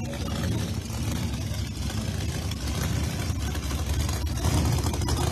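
Drag-race cars' engines running at the starting line while staging, a heavy low rumble that grows gradually louder.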